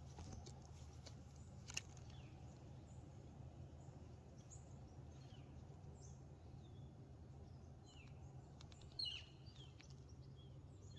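Near silence outdoors: faint, scattered short bird chirps over a low steady background rumble, with two brief soft clicks, one about two seconds in and one about nine seconds in.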